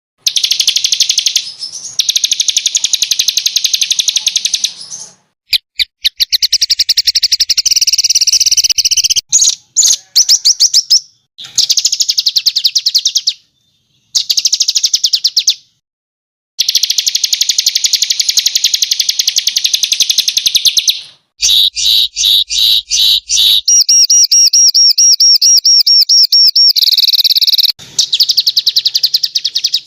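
Edited recordings of small songbirds singing, played as a bird-tutoring track: loud, fast, harsh trills of rapidly repeated high notes ('tembakan kasar'), in separate clips that cut in and out abruptly with short silent gaps between them.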